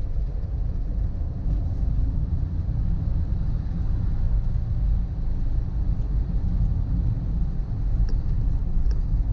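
Steady low rumble of a vehicle on the move: engine and road noise while driving.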